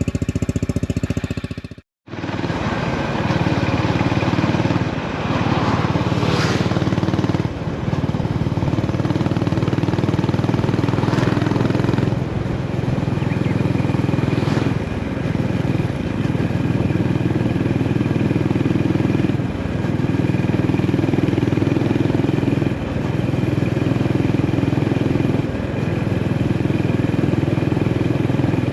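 Honda GB350S's air-cooled single-cylinder engine running on the move, with short dips in the engine sound every few seconds. The sound drops out completely for an instant about two seconds in.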